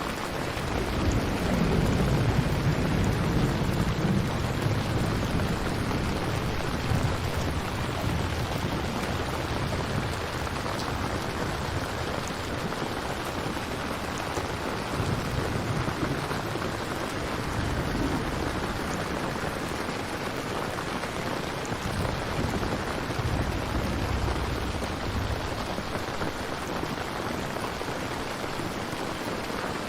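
Steady rain, with low rolls of distant thunder swelling about a second in and again twice later.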